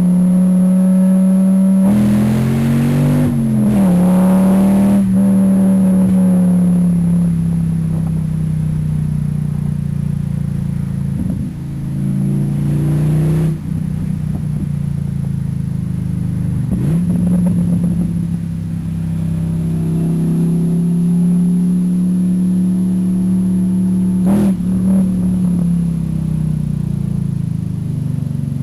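2004 Pontiac GTO's LS1 V8 running through JBA short headers and stock catalytic converters, holding a steady note with several short blips of the throttle where the pitch rises and drops back.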